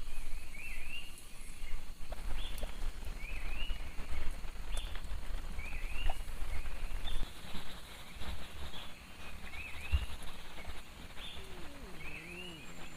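An animal repeating a short high chirp, a quick rising-and-falling note often given in twos or threes, about every second and a half, over a steady low rumble.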